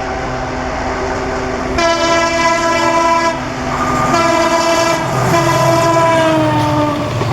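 Horn of a WDP4 (EMD GT46PAC) diesel locomotive sounding three long blasts starting about two seconds in, the last one sagging in pitch. Under the horn is the steady drone of the locomotives' diesel engines.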